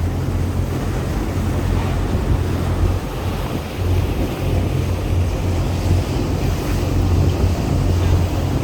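A tour boat's engine running steadily with a low hum, under wind buffeting the microphone and the rush of water along the hull.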